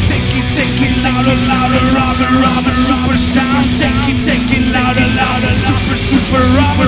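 Live band playing rock mixed with electronic music: a held low note under a wavering lead line, with cymbals hitting at a regular beat.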